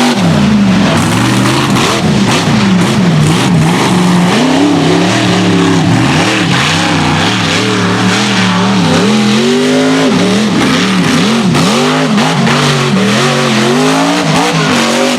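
Mega truck engine racing around a mud course, revving hard and unevenly, its pitch swinging up and down about once a second as the throttle is worked.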